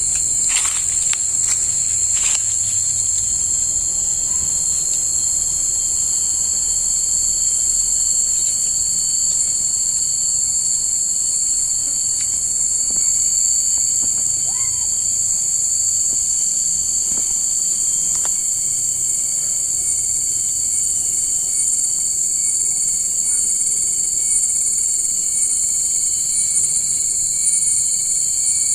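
Insect chorus in a steady, high-pitched, continuous drone, with a few faint clicks in the first couple of seconds.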